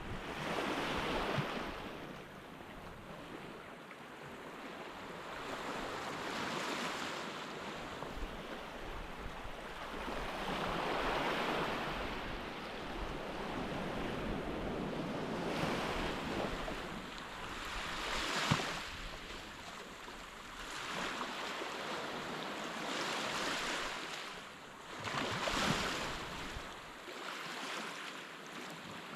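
Sea waves breaking and washing up on a sandy beach, the surf swelling and fading every few seconds.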